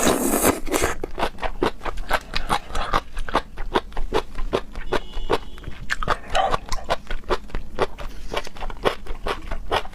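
Close-up chewing of crunchy food, a rapid run of crisp crunches about three or four a second.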